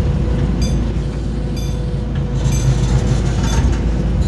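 Miniature park train running along its track, heard from on board: a steady low rumble with a short click about once a second, typical of the wheels crossing rail joints.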